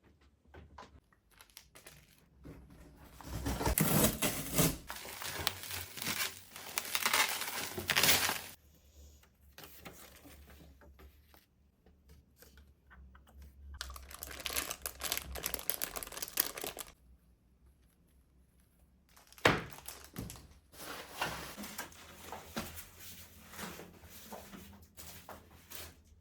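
Crinkling, rustling and tearing of packaging being handled, in three stretches, with a single sharp knock about two-thirds of the way through.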